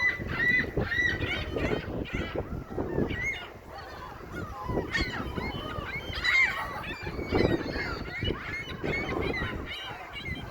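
Seagulls calling, many short overlapping cries one after another, with a brief lull partway through.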